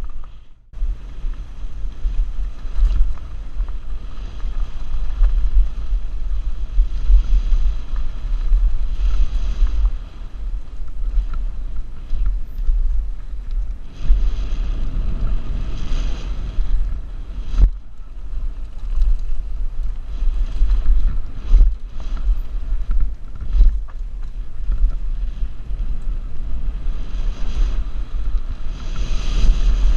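Wind buffeting a helmet-mounted action camera's microphone on a fast mountain-bike descent, with the steady rush of tyres over dirt, hissy swells every few seconds and scattered sharp knocks and rattles from the bike on rough trail.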